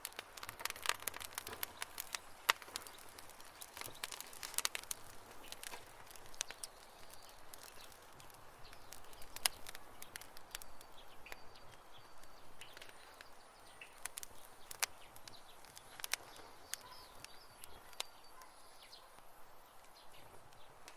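Wood campfire crackling with irregular sharp pops. From about halfway through, faint short chirps come in underneath.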